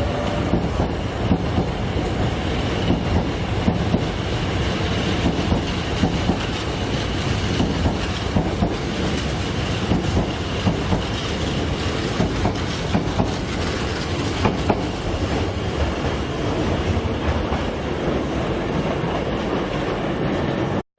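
Hankyu electric commuter train running, its wheels clicking steadily over the rail joints over a continuous rumble, with a thin high wheel squeal at times.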